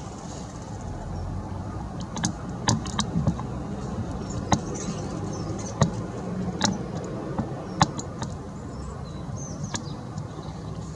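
Irregular sharp taps and clicks of garden birds pecking at food on a feeder, about a dozen spread unevenly, with a few faint high chirps. A steady low rumble of distant road traffic runs underneath.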